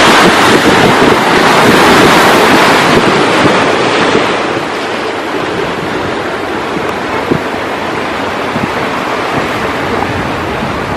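Ocean surf with wind buffeting the microphone: a wave breaking loudly at the start and washing back, the rush easing after about four seconds into a steadier wash.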